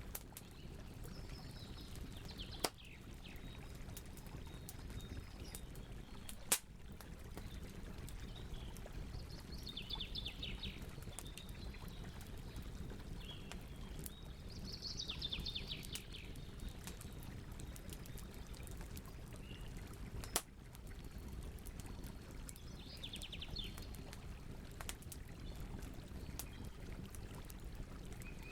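Campfire burning with a steady low rush and three sharp pops, with birds chirping in short bursts every several seconds.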